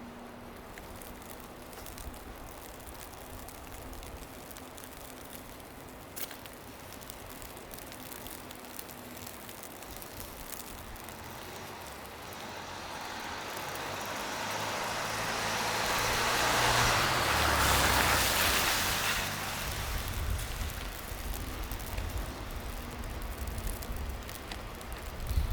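A motor vehicle passing on a snowy city street: tyre and engine noise swells over several seconds, peaks a little past the middle, then fades back into the steady street ambience. A faint steady hum runs under the first third.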